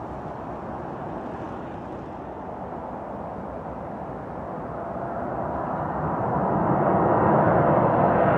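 Jet engine noise from a cargo jet, a steady rushing that swells louder from about halfway through as the aircraft comes closer.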